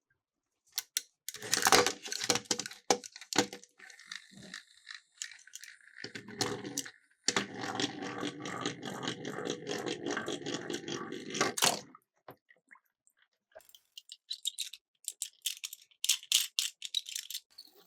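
Miniature toy cars clattering and rattling as they roll down a slope: a first burst of clatter, then about five seconds of steady rolling rattle with fast clicks, then scattered light clicks near the end.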